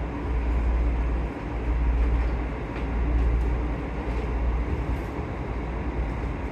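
Electric commuter train heard from inside the passenger car while running between stations: a steady low rumble of wheels and running gear with a faint steady hum.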